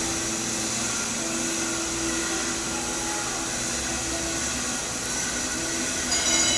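Stick-welding arc (SMAW, E7018 electrode) burning steadily with an even hiss during a cap pass on a boiler header. It gets briefly louder near the end.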